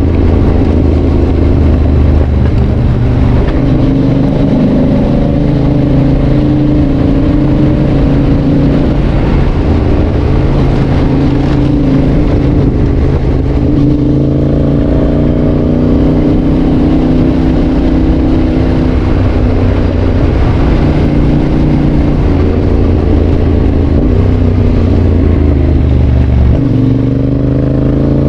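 Yamaha Tracer 7's 689 cc parallel-twin engine through a GPR aftermarket exhaust, ridden on the road, its exhaust note climbing and falling in pitch as the bike speeds up and changes gear, with a rising rev about halfway and again near the end.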